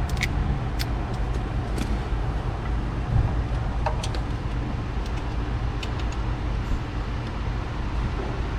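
Steady low hum of shop background noise, with a few light metallic clicks from a spark plug socket on an extension being worked into a spark plug hole.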